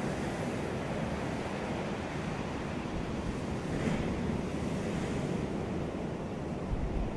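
Hurricane-driven waves washing and breaking in a steady rush, swelling a little about four seconds in, with wind buffeting the microphone.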